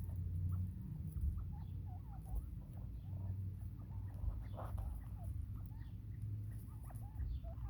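Bobwhite quail making many soft, short chirping calls, scattered irregularly, over a low steady rumble.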